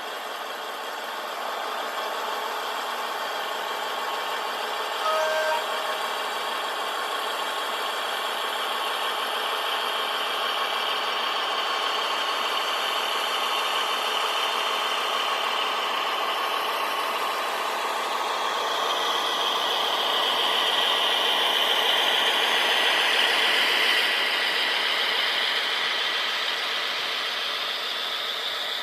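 H0-scale model locomotive running with three wagons on the layout: a steady hum of motor and wheels on the track that grows louder from about eighteen seconds in as the train comes closer. A short tone sounds about five seconds in.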